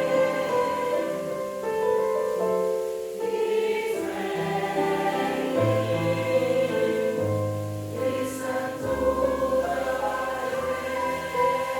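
A choir singing sustained chords, the harmony shifting every second or so.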